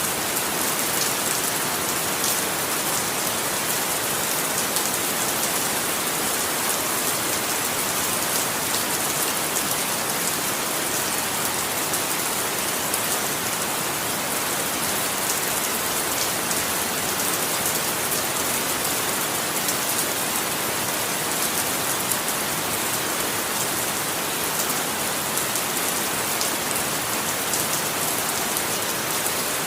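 Steady rain falling, an even hiss with fine scattered drop ticks and no change in strength.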